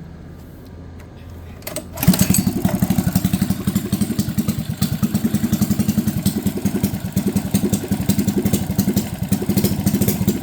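A Coleman CC100X mini bike's original small single-cylinder engine, pull-started, catches about two seconds in and runs with an even, loud pulsing beat; the owner says it runs great.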